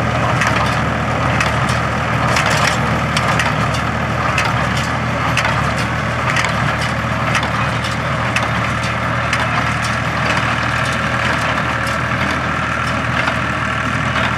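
Case IH 485 tractor engine running steadily while the IH 440 small square baler works hay, with frequent sharp clacks from the baler's moving parts over the engine.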